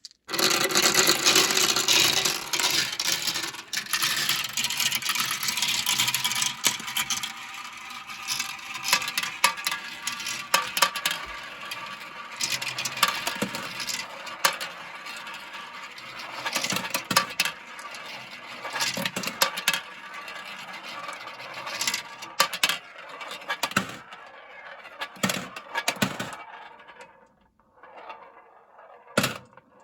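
Many marbles rolling and clattering down a marble run track, a dense rattling rush at first that thins out into scattered clicks and knocks as fewer marbles remain, nearly dying away near the end.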